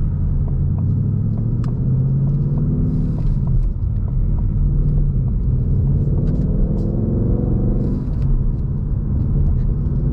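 2021 Ford Mustang Mach 1's 5.0-litre V8 pulling hard under acceleration with the six-speed manual. Its revs climb for about three seconds, dip briefly in a gear change, climb again, and fall away about eight seconds in.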